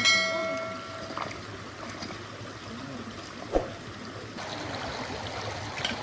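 A mountain river flowing steadily. Near the start a metal object is struck and rings for about a second, and a single dull knock comes about halfway through.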